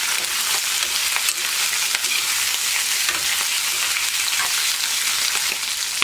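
Quail meat and onions frying in a steel kadai: a steady sizzling hiss, with the steel ladle scraping and clicking against the pan as it stirs.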